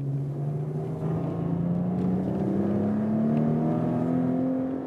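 Maserati Ghibli SQ4's 3.0-litre V6 pulling under acceleration, its note climbing steadily for several seconds and then dropping back near the end as it shifts up a gear.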